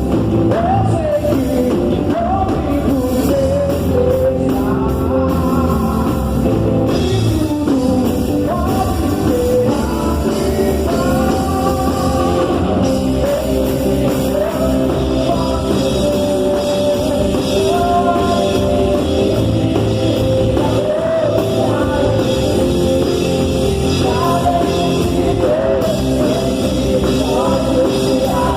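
Worship song at a church service: singing over a rock-style band with drum kit and guitar, playing steadily throughout.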